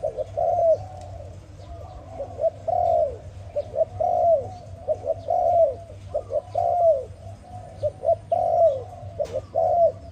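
A dove cooing over and over, each phrase a couple of short coos followed by a longer, arched coo, repeating about every second and a half.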